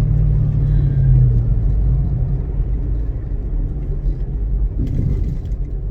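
2006 Ford Mustang GT's 4.6-litre V8 running on the road, heard from inside the cabin as a steady engine drone with road rumble. The engine note eases off a little over a second in and the level falls gradually after that.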